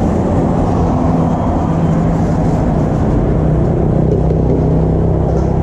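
A motor running steadily, a low even hum under dense street noise.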